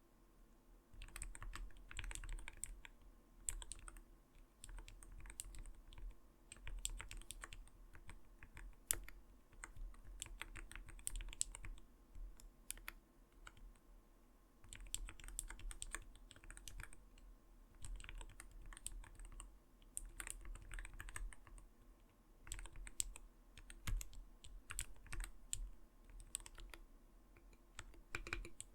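Typing on an Arbiter Studio Polar 65 mechanical keyboard: soft, muted key strokes in quick runs with short pauses between them.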